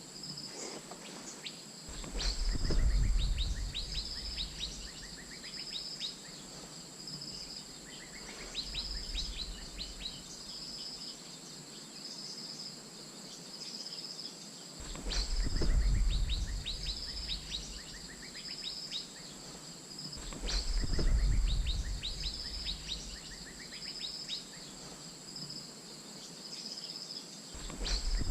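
Asian fairy-bluebird calling: a short high whistled note repeated about once a second, with clusters of quick falling chirps. Underneath runs a steady thin high whine, and low rumbles rise four times.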